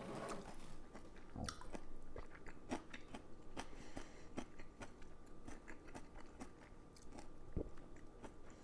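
A person chewing and biting food close to the microphone: a run of small irregular mouth clicks and smacks, with a single low thump near the end.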